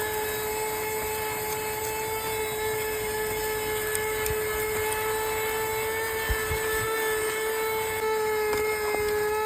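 Small handheld cordless car vacuum running with a steady, high-pitched motor whine, its suction nozzle attachment fitted. A few soft knocks come a little past the middle.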